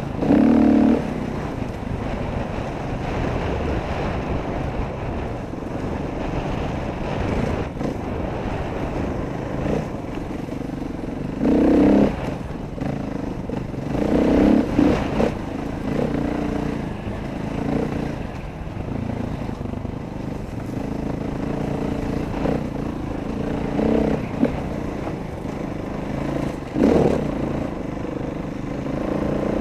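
Dirt bike engine running during a trail ride, the throttle opening in several short revving surges and dropping back in between, over a steady rushing noise.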